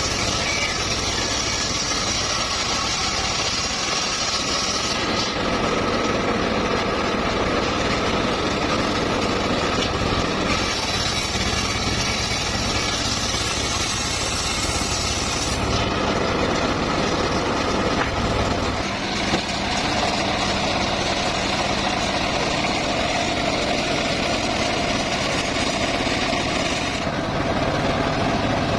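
Engine-driven sawmill running steadily while sawing mahogany, with a higher hiss joining twice for about five seconds at a time.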